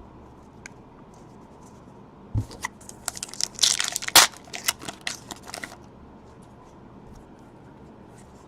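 A trading-card pack wrapper being torn open and crinkled by hand in a few seconds of crackling bursts, after a light knock.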